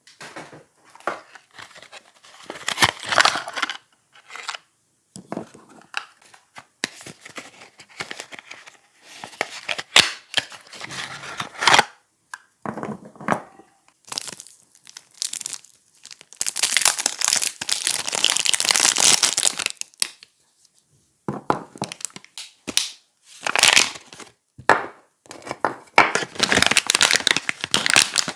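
Soap bars being unwrapped by hand: the wrapping is torn and crinkled in irregular bursts, with one long stretch of continuous tearing about halfway through.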